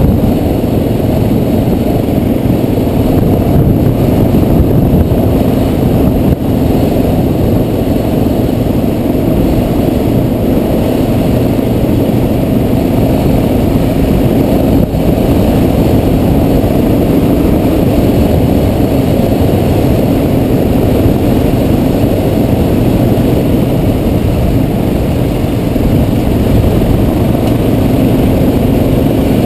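Dual-sport motorcycle engine running at a steady cruise on a dirt road, loud and even throughout.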